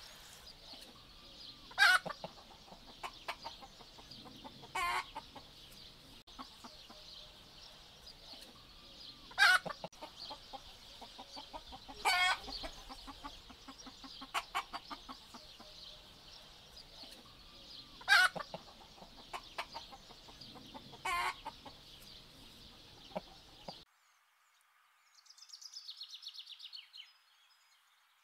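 A flock of domestic hens clucking, with loud squawking calls every few seconds. Near the end the clucking stops abruptly and a brief, quieter, rapid rattling call follows.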